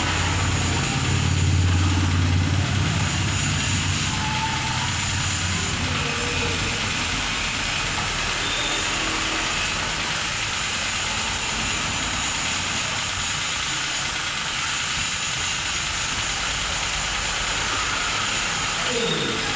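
A loud, steady hiss from a high-pressure jet at an engine wash. A low motor hum runs under it for the first few seconds and then fades.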